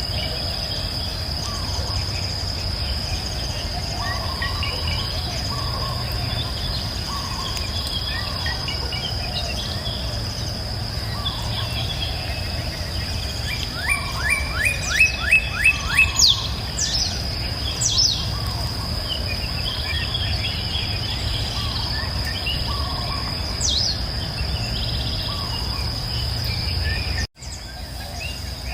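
Birds chirping over a steady, high-pitched insect drone and a low rush of running water. About halfway through, one bird gives a fast run of about seven loud falling notes, the loudest sound here. The whole soundtrack drops out for an instant near the end.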